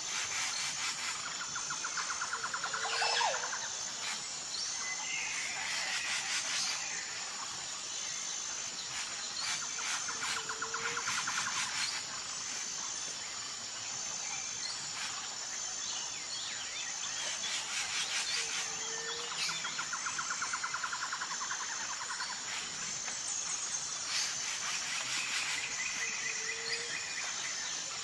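Outdoor nature ambience: birds call and trill over a steady, high, pulsing insect buzz. The same group of bird calls comes back about every eight seconds.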